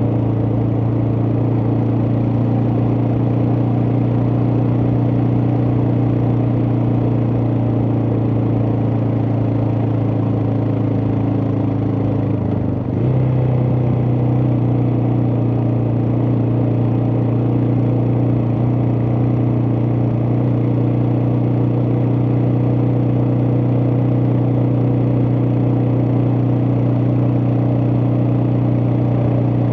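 Suzuki DR650's single-cylinder engine running steadily under way on a ride. About halfway through the engine note briefly drops, then carries on at a slightly different pitch.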